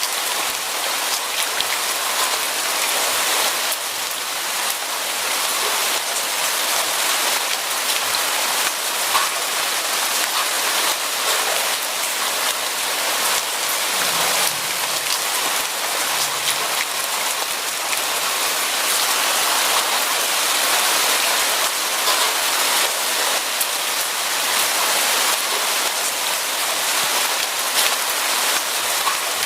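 Steady, heavy rain falling on a surface, a dense hiss of many fine drop impacts that stays even throughout.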